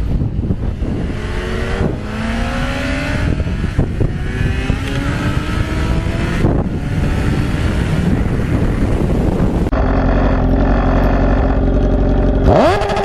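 A vehicle engine accelerating hard through the gears: its pitch climbs steadily, then drops back at each upshift, about every two seconds. Near the end it turns into a steadier engine note.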